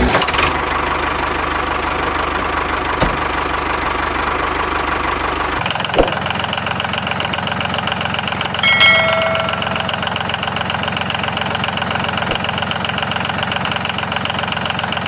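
Small electric motor of a DIY model tractor running with a steady buzz, its tone shifting about six seconds in, with a couple of faint clicks.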